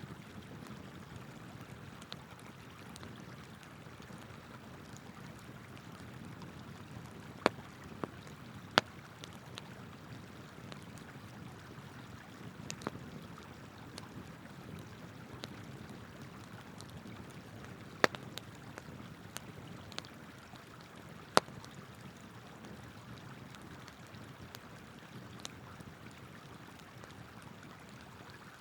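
Wood campfire crackling, with sharp pops scattered through, the loudest a few together about a quarter of the way in and two more past the middle, over the steady rush of flowing river water.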